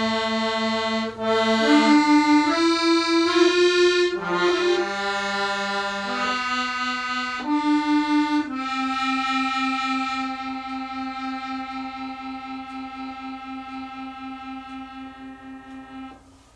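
Accordion playing a slow melody over chords, closing on a long held chord that fades away and stops near the end.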